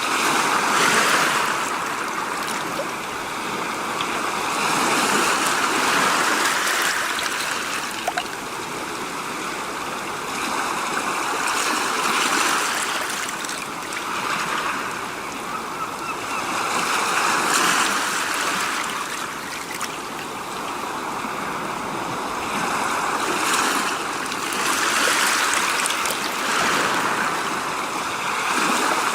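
Rushing, water-like noise that swells and fades about every five or six seconds.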